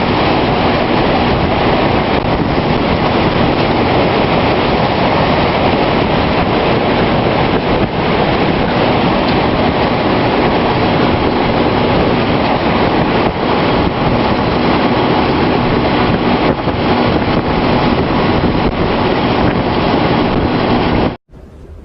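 Loud, steady roar of strong tornado wind rushing over the microphone, cutting off abruptly near the end.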